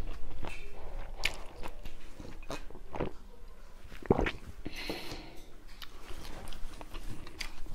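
Close-up eating sounds of a person chewing a mouthful of rice, with scattered wet mouth clicks and smacks, and a sip from a mug partway through.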